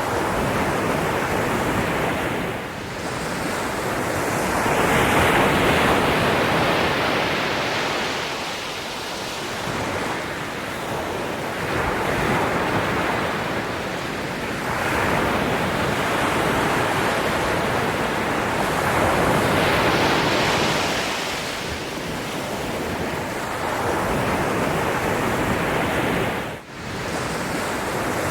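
Sea waves surging in and washing back, the sound swelling and falling away every four to five seconds. The sound drops out briefly about two seconds before the end.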